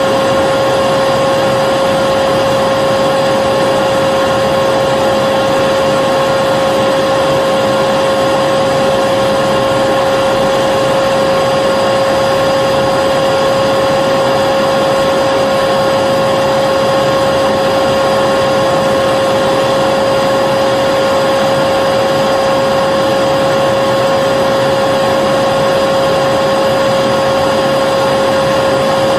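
Vacuum cleaner running steadily: a constant whine over an even rush of air.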